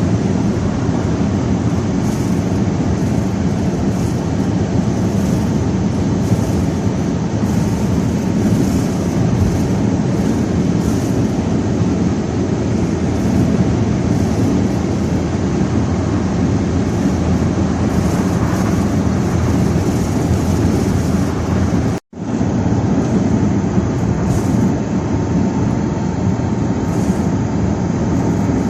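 Strong wind blowing hard over the microphone together with the noise of a moving vehicle, a loud steady rush with no let-up. It cuts off for an instant about 22 seconds in, then carries on the same.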